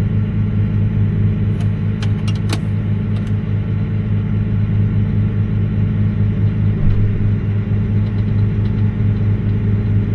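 Tractor engine running steadily at a constant speed, with a few light clicks about two seconds in.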